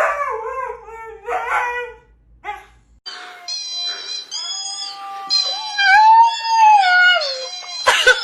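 A dog howling on the command to sing, in long wavering notes. After a break about three seconds in, a higher, longer run of howling glides up and down in pitch.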